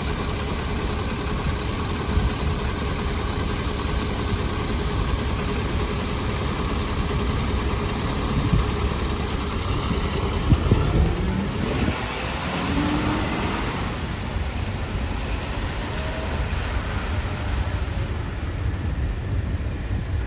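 City bus diesel engine idling steadily, with a brief surge about ten seconds in where the pitch rises and falls.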